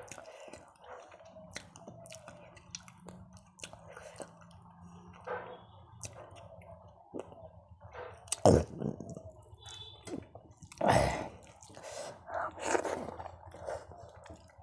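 Close-up chewing of fingerfuls of rice mixed with fish curry: soft wet mouth sounds and small clicks, with a few louder ones about eight and a half and eleven seconds in.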